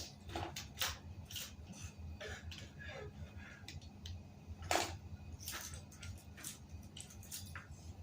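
Irregular light clicks, taps and scrapes of hand work on a bicycle tire and wheel, with one louder knock a little before the middle, over a steady low hum.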